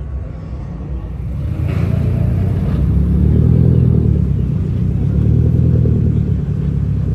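Car engine and exhaust rumbling deeply. It grows louder about a second and a half in and stays loud, with slow rises and falls.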